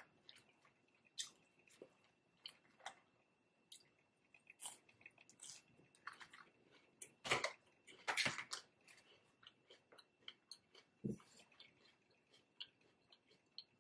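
A person chewing food with wet mouth sounds and scattered crisp crunches. The loudest crunches come about seven and eight seconds in.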